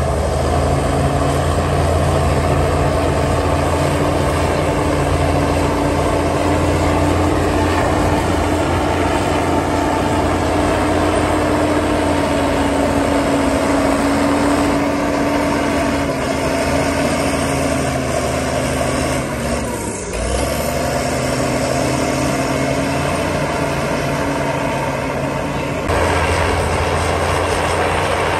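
Heavy diesel engine of earthmoving machinery running steadily under load, with a brief drop in engine speed about two-thirds of the way through before it picks back up.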